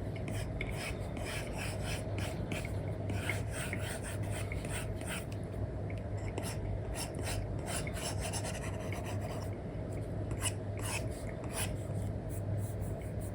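Stylus nib scratching across a paper-like iPad screen film in many short, quick drawing strokes, over a steady low hum.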